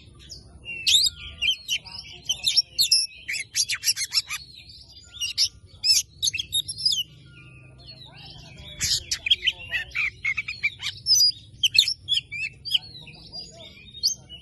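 Oriental magpie-robin (kacer) singing a rapid, varied song of whistles, chattering notes and trills, in bursts broken by short pauses, the kind of lure song played to set silent kacer singing.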